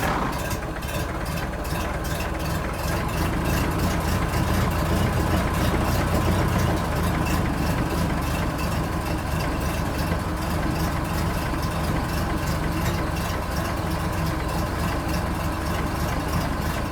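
An engine idling steadily with an even, rapid pulse, like a tractor's diesel.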